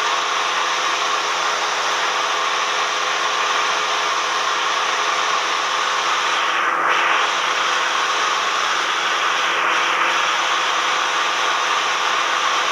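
Cessna 172M's four-cylinder Lycoming engine and propeller running steadily: a constant rushing noise with a low multi-tone hum underneath.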